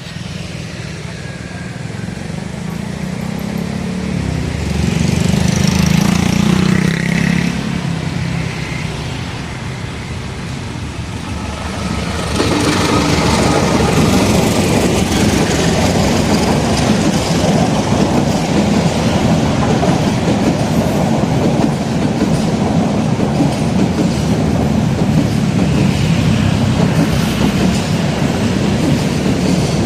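A diesel locomotive approaches and passes close by, its engine growing loudest a few seconds in. From about twelve seconds in, passenger carriages roll steadily past with a continuous rail clatter.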